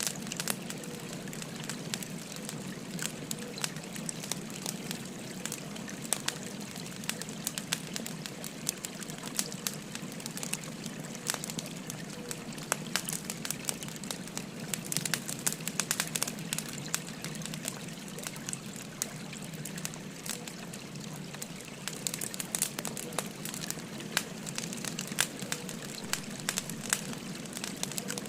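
Firewood burning with frequent sharp, irregular crackles and pops, over the steady rushing of a flowing stream.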